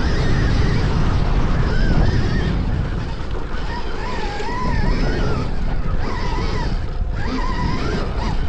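Off-road motorbike ridden over a gravel riverbed: heavy rumble, tyre and wind noise, with a thin whine that keeps rising and falling in pitch with the throttle.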